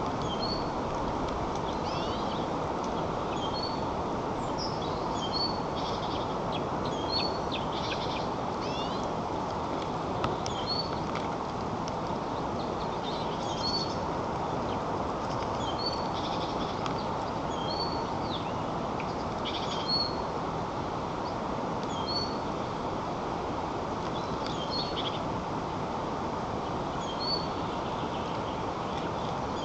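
Short, high bird chirps repeating every second or two over a steady hiss.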